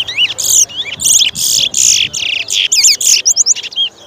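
Towa-towa (chestnut-bellied seed finch) singing a loud, fast, warbling song of rapid rising and falling whistled notes, stopping just before the end.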